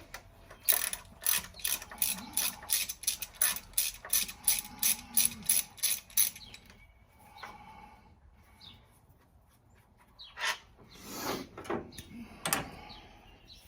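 Hand ratchet wrench clicking in steady strokes, about three clicks a second for some five seconds, as bolts are backed out of the timing cover of a Ford 302 V8. A few duller knocks and scrapes of tool handling follow near the end.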